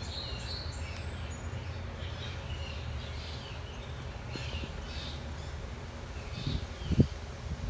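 Several small birds chirping over a steady low rumble of background noise, with two or three dull knocks near the end.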